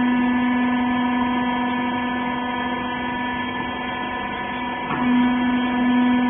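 Hydraulic power unit of a small rag baler running with a steady electric hum. About five seconds in there is a click, and the hum comes back stronger after it.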